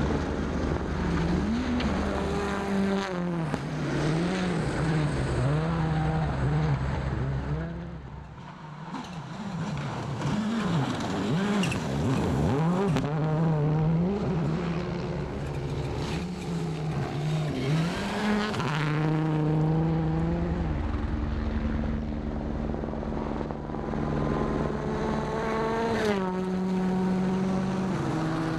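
Turbocharged four-cylinder World Rally Car engine heard from the onboard microphone, revving hard up and down through a run of bends, with a short lift off the throttle about eight seconds in and longer held notes flat out in the second half, broken by quick gear changes.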